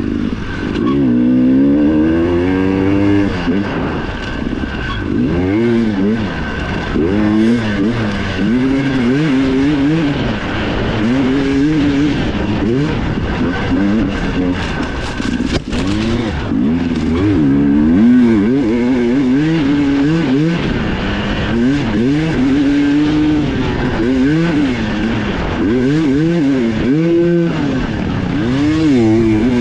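Enduro dirt bike engine heard from on board under race riding, its pitch rising and falling over and over as the throttle is opened and closed, with a few longer steadier pulls.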